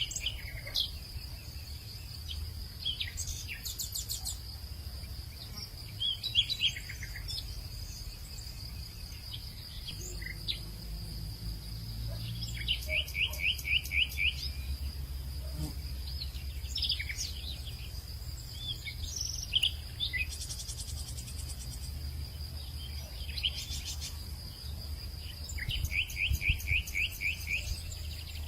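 Hillside birds calling in scattered phrases, twice in a quick trill of repeated notes, over a steady high-pitched insect drone, with a low rumble underneath.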